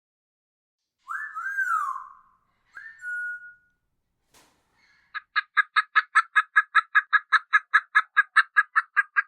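Turkey calls: two short whistled notes, one rising and falling, then from about halfway through a fast, even run of calls at about five a second.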